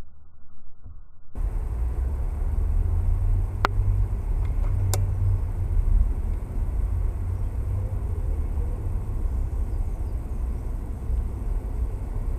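Low, steady outdoor rumble that starts abruptly about a second in, with two sharp clicks a little over a second apart near the middle.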